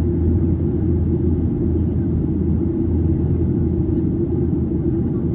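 Steady low rumble of a Boeing 737-800's CFM56-7B engines and airflow, heard inside the passenger cabin while the jet is in flight.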